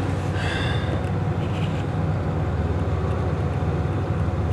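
Steady low mechanical drone of running HVAC equipment, an even hum that holds without change.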